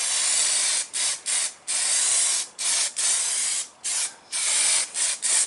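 Rust-killing treatment being sprayed onto bare car-body steel in about ten bursts of hiss, some short spurts and some nearly a second long.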